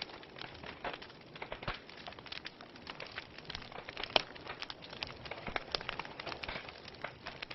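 Wood fire burning in a fireplace: irregular sharp crackles and pops from the logs over a steady soft hiss of flame, with one louder pop about four seconds in.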